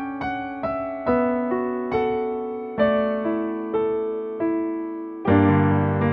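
Solo piano playing the slow closing passage of a ballad: single notes and small chords struck about twice a second, each dying away, then a fuller chord with deep bass notes struck about five seconds in and left ringing.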